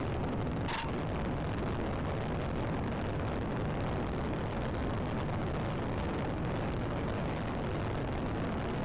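Steady low rumble of a vehicle, with one short click about a second in.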